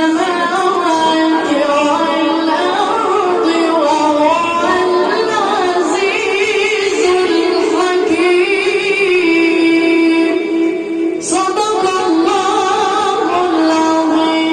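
A child's high voice reciting the Quran in a melodic chant, holding long notes with wavering ornaments, with a short break for breath about eleven seconds in.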